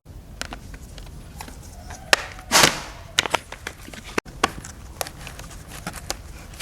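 Hand work on small parts: scattered sharp clicks and knocks, with one louder short noisy burst about two and a half seconds in.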